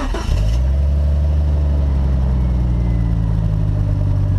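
Jeep engine catching right at the start and then running at a steady idle.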